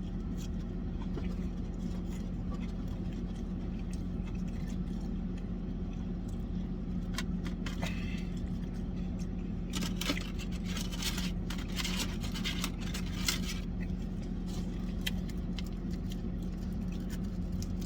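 Steady low hum, like a car engine idling, with scattered clicks and crinkles of food packaging as someone eats, clustered about ten to thirteen seconds in.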